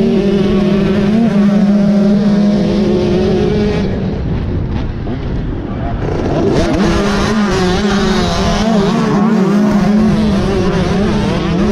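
Motocross dirt bike engines running on a track, a loud, steady high-revving drone that fades about four seconds in and picks up again around seven seconds in.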